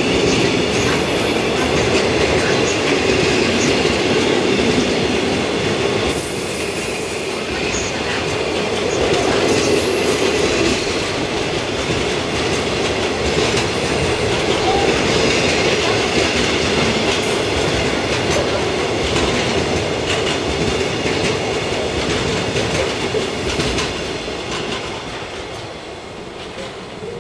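A long freight train's wagons rolling past: container flats and then a string of tank wagons, their wheels running on the rails with steady clatter and a few brief high-pitched wheel squeals. The sound fades near the end as the last tank wagon goes by.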